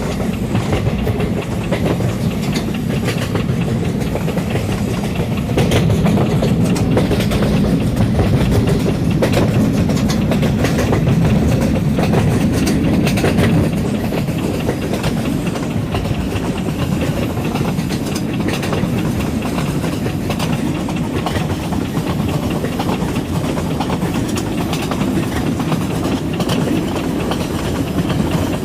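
Diesel locomotive train running: a steady low rumble with frequent short, sharp clicks scattered through it.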